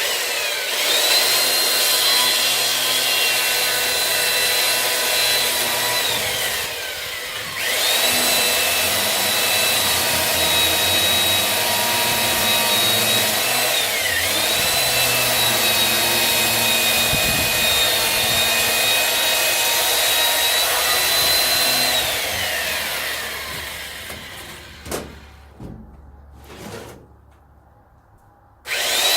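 Electric saw cutting firewood: its motor runs at a steady high whine, coasts down and restarts twice, and sags in pitch once as the blade bites into the wood. A few knocks of wood come in the quieter stretch near the end.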